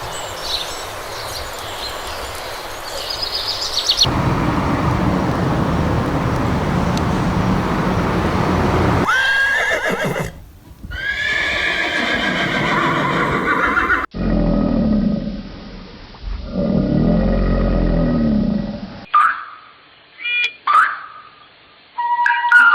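Horses neighing and whinnying in a run of separate short recordings, each call a pitched whinny that rises and falls, over changing background noise.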